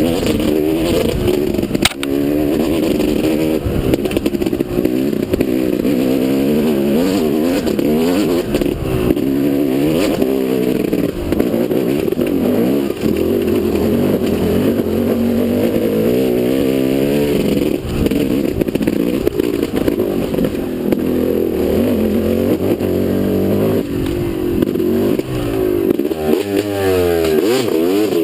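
Motocross motorcycle engine being ridden hard, revving up and down over and over, its pitch climbing and dropping every second or so with throttle and gear changes, with a few sharp knocks and clatter.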